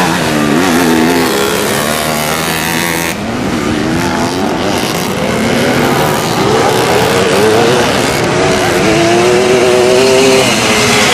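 Classic twin-shock motocross motorcycles racing, engines revving up and down through the gears, several at once.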